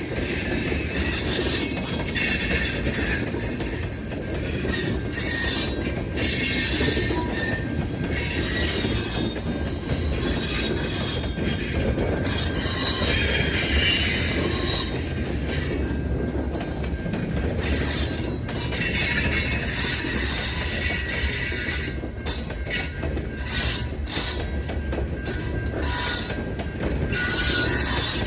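Train rolling past, its wheels squealing against the rails in a shifting high screech over a steady low rumble.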